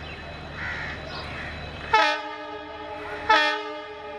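Diesel locomotive horn of a WDP4B (EMD GT46PAC) sounding two loud blasts, the second about a second after the first. Before the blasts there is a low rumble.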